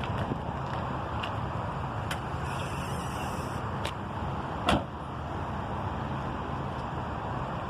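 Steady vehicle rumble with a low hum, a few light clicks and one sharp knock about halfway through.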